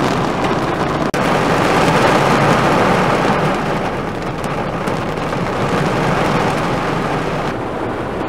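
Heavy, wind-driven rain pouring down in a thunderstorm: a loud, dense, steady hiss. It cuts out for an instant about a second in and turns a little duller and softer near the end.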